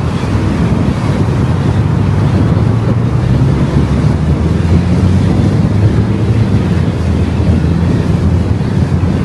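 Car driving at steady speed: continuous rumbling road and wind noise with a low steady engine hum underneath.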